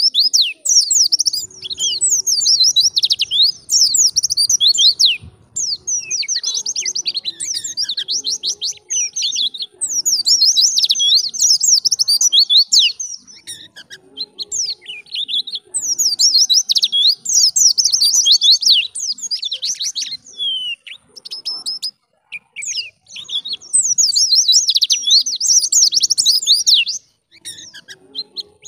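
White-eye (pleci) singing a fast, chattering song of rapid high whistled notes, in bursts of a few seconds with short pauses between them.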